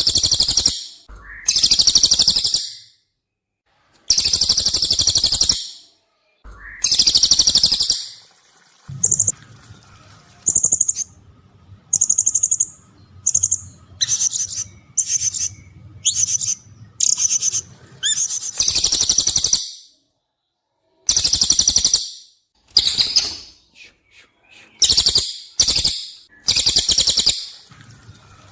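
Cililin and serindit (blue-crowned hanging parrot) calling in turn: long, loud, sharp high calls of about a second each, separated by pauses. In the middle comes a run of short, high chirps.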